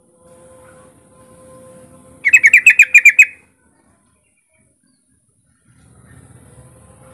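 Yellow-vented bulbul giving one short, fast burst of about nine bubbly repeated notes, lasting about a second, a little over two seconds in. A faint low rumble and a steady faint hum lie underneath.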